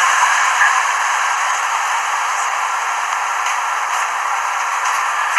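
A steady, even hiss of noise with no clear tone or rhythm, easing off slightly about two seconds in.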